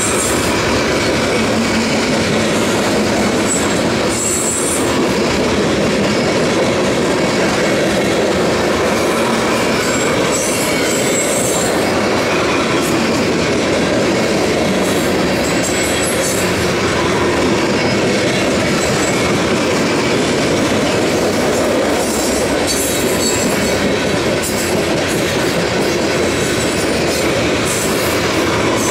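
Freight train of bathtub coal gondolas rolling past close by: a steady rumble and clatter of wheels on rail, with brief high-pitched wheel squeals now and then.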